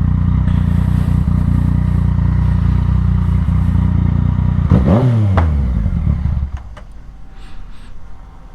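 Yamaha motorcycle engine idling steadily, then a short rev that rises and falls about five seconds in. The engine sound stops sharply a moment later, as if switched off.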